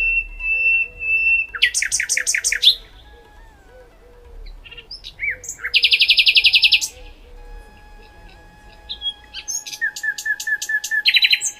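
Birds chirping in three bursts of rapid, high-pitched trills, over faint steady background tones.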